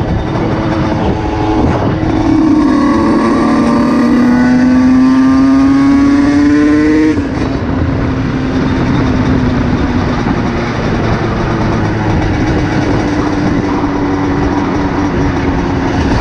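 Motorcycle engine heard from on the bike, its pitch rising steadily as it accelerates, then dropping suddenly about halfway through and running at a steady pitch.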